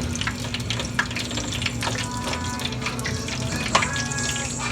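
Water running steadily from a kitchen faucet, with a few small clicks and knocks.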